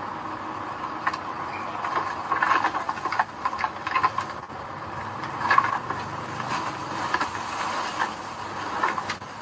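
Earthmoving machinery working, with a steady engine-and-hiss background and irregular metallic clanks and rattles.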